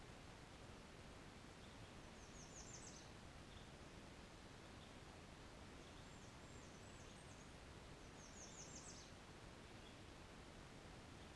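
Faint bird song: three short phrases of rapid, high, thin notes, about two seconds in, around six to seven seconds, and near nine seconds, over a steady low hiss.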